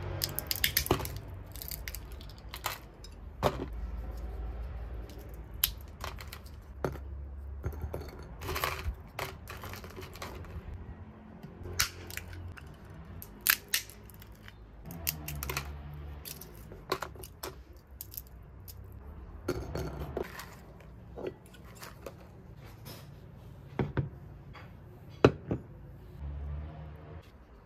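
Scattered clicks, taps and light knocks of small objects being handled, over a low hum.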